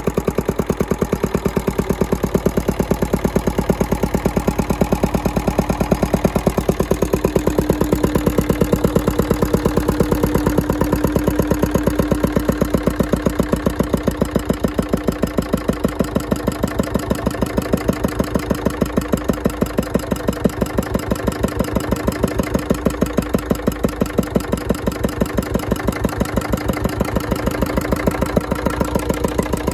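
Andoria S15 single-cylinder stationary diesel engine (102 mm bore, 120 mm stroke) running steadily, its firing strokes knocking out an even, regular beat.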